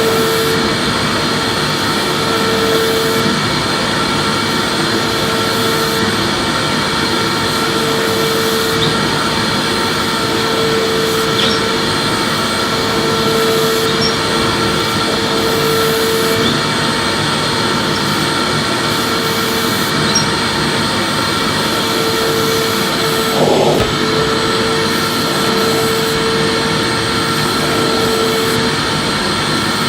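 Vacuum cleaner running steadily with its motor whine; a hum in it swells and fades every couple of seconds as the vacuum is pushed back and forth. There is one short knock about three-quarters of the way through.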